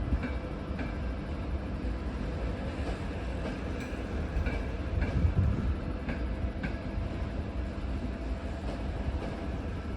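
Train rolling along the station tracks: a steady low rumble of wheels on rails with scattered clicks over rail joints, swelling briefly about halfway through.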